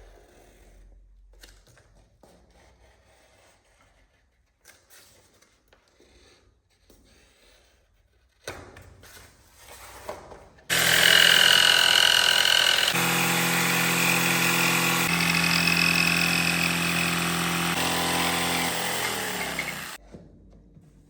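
An electric power tool switches on about eleven seconds in and runs loudly and steadily for about nine seconds, changing pitch twice, then is switched off and winds down. Before that there are faint knocks and handling sounds.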